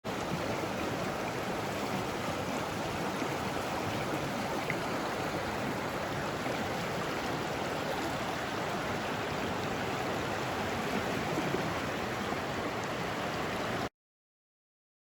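Creek water rushing steadily, an even hiss, which cuts off abruptly near the end.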